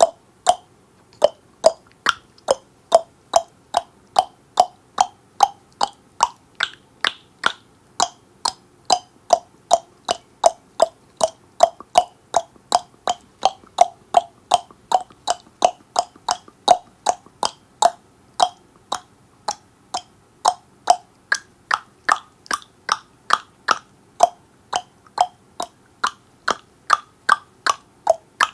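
A steady run of sharp tongue clicks made against the roof of the mouth, about two to three a second. The clicks turn higher-pitched about three quarters of the way through.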